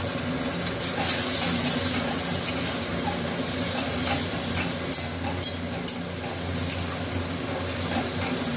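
Chopped onions and a freshly added ginger-garlic-cumin paste sizzling in hot oil in a metal kadai while being stirred with a long metal spoon, which scrapes the pan and clinks against it a few times around the middle.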